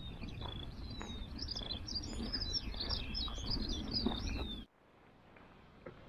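Several small birds chirping and singing in quick, repeated phrases over a low rumble. The sound cuts off abruptly about four and a half seconds in, leaving a much quieter background.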